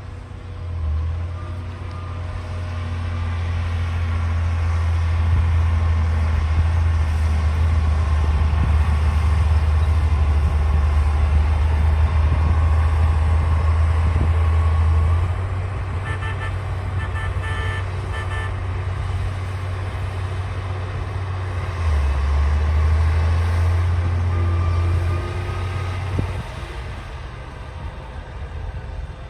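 D60 crawler bulldozer's diesel engine working under load, a loud low drone that swells, eases about halfway through and builds again, with a stretch of metallic clatter in the middle.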